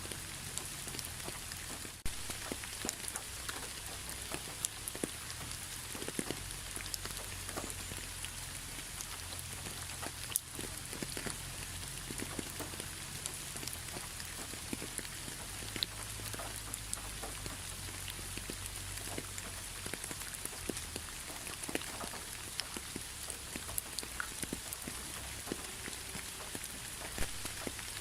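Steady rain falling on a surface, a constant hiss with many separate drops ticking sharply through it, and a faint low rumble underneath.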